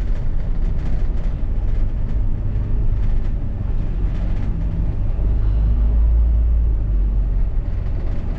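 A London double-decker bus heard from inside while riding: steady low engine and road rumble, heavier from about four to seven seconds in, with light rattles.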